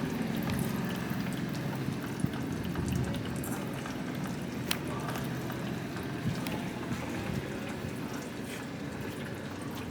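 Liquid running and trickling steadily, with scattered small clicks.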